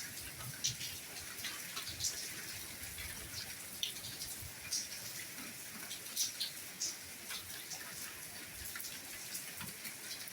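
Light rain falling: a steady soft hiss with many scattered individual drops tapping close by.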